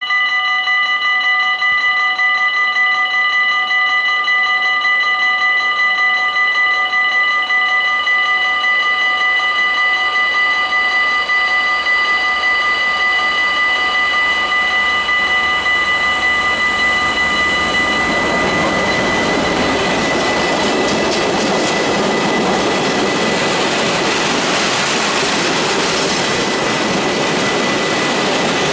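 Vossloh G 2000 diesel-hydraulic locomotive with a train of chemical tank wagons: several steady high tones hold for about the first two-thirds, then fade. The rumble and rattle of the train running past builds up in their place.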